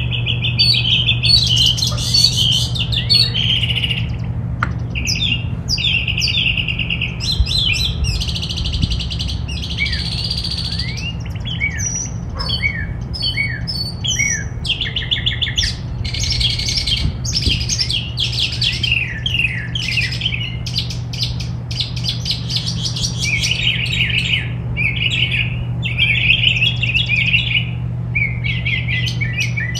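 Songbirds chirping, trilling and twittering, with many calls overlapping without pause, over a steady low hum.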